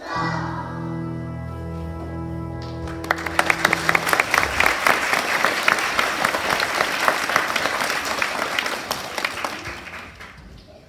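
The last chord of a song's musical accompaniment is held and dies away. About three seconds in, an audience breaks into applause, which carries on steadily and fades out near the end.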